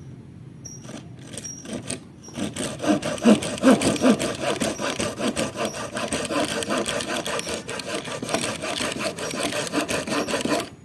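Wood being sawn by hand with a continuous run of rasping back-and-forth strokes, starting about two seconds in after a few light knocks and stopping suddenly near the end.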